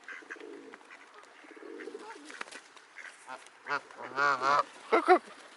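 Birds calling: faint soft calls at first, then a quick run of repeated calls about three and a half seconds in, and two louder calls near the end.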